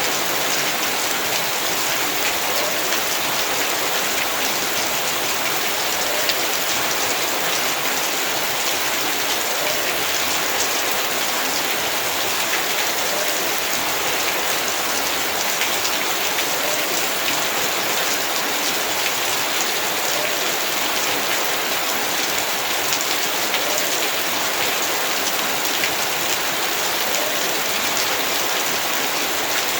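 Heavy rain falling steadily, a dense even hiss of drops hitting the ground, with many small individual drop ticks.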